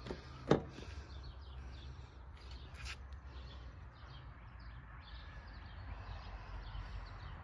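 Faint birds chirping over a steady low outdoor rumble, with one sharp click about half a second in and a fainter one near three seconds.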